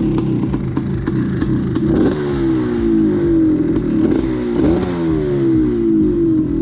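Single-cylinder two-stroke engine of a freshly restored 1986 Husqvarna 400 XC running steadily, then from about two seconds in the throttle is blipped several times, the revs falling back after each. The engine is running pretty decent.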